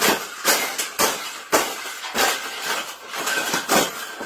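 Metal clattering: irregular sharp metallic knocks and rattles, about two a second, each with a short ring after it.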